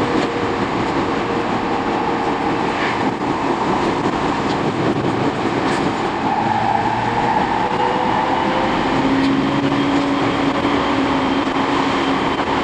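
E231-series electric commuter train running at speed, heard from inside the carriage: a steady rumble of wheels and running gear with a faint motor whine and an occasional light click.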